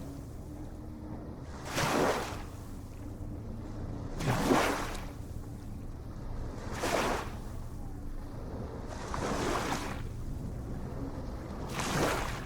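Small ocean waves washing in, one short surge of hiss about every two and a half seconds, over a steady low rumble.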